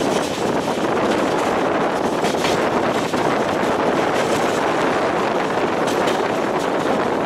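Passenger train running at speed, heard from on board: a steady rumble and rush of wheels on rails and moving air, with a few faint clicks.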